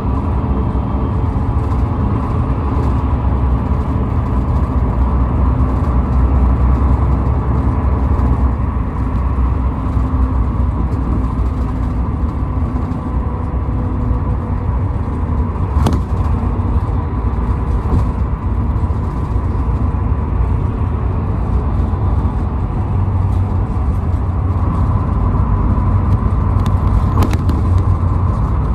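Car travelling on a highway: a steady, loud low rumble of engine and tyre road noise, with a faint steady whine and a brief click about sixteen seconds in.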